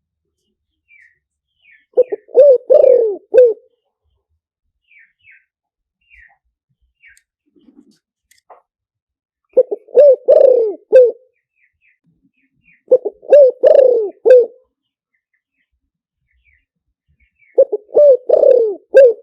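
Spotted dove cooing: four phrases of several rounded coos each, a few seconds apart, in the kind of call recording played as a lure to draw wild doves to a trap. Faint high chirps from other small birds come between the phrases.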